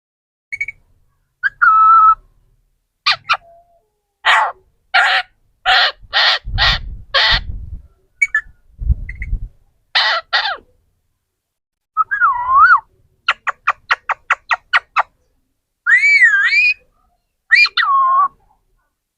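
A parrot calling: a run of about six harsh, caw-like squawks in quick succession, then a fast series of a dozen or so clicks and several warbling whistles that swoop up and down in pitch near the end.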